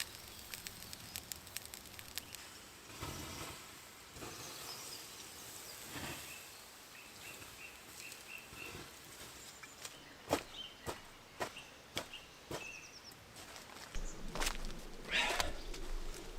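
Quiet woodland ambience with scattered knocks, rustles and footsteps of someone moving about and clearing a campsite. A short series of high bird chirps comes in the middle.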